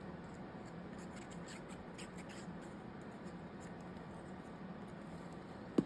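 Faint rustling and rubbing of paper being handled and glued down by hand, with a few soft scratchy ticks and a single sharp click near the end, over a steady low hum.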